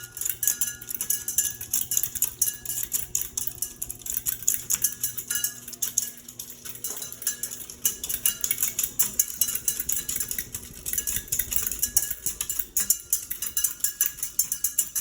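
Westinghouse Xavier ceiling fan running, a steady motor hum under a fast, continuous metallic clattering rattle.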